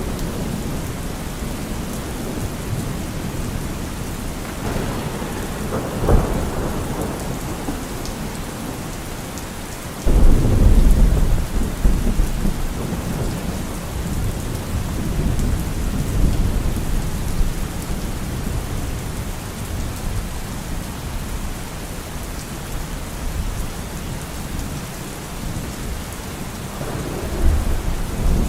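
Steady heavy rain falling, with thunder: a rumble that builds to a sharp crack about six seconds in, a sudden loud clap about ten seconds in that rolls on low for a couple of seconds, and another rumble near the end.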